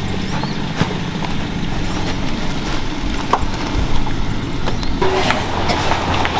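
Car engine idling, with a few light knocks and clicks from someone climbing into the back seat and handling bags.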